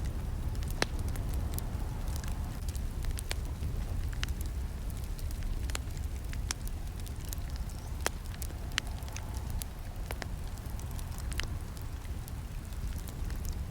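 Campfire burning: a steady low rush of flames with irregular sharp crackles and snaps from the burning wood, a few each second.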